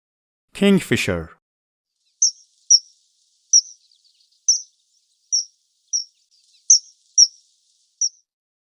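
Kingfisher calling: about nine short, high-pitched notes, each dipping slightly in pitch, spaced unevenly half a second to a second apart.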